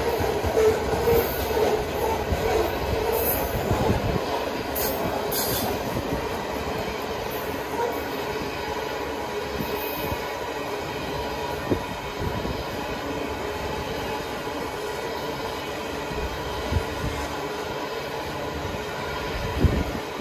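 Freight train rolling past: a steady rumble of wheels on rail, with a held whine in the first few seconds and a few short knocks later on.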